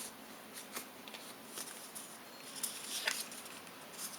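Oracle and tarot cards being handled on a table: faint scattered clicks and soft rustles of card stock, a few slightly sharper taps along the way.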